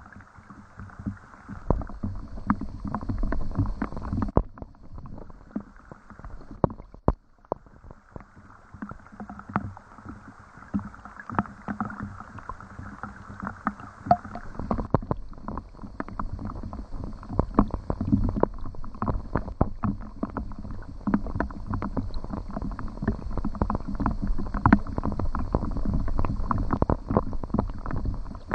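Rain falling, with many individual drops ticking irregularly on a nearby surface over a low rumble of water and wind.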